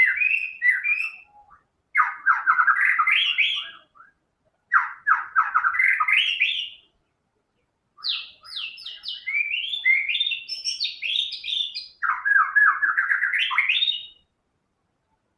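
White-rumped shama (murai batu) in full song: five phrases of rapid, rising trilled notes with short pauses between them.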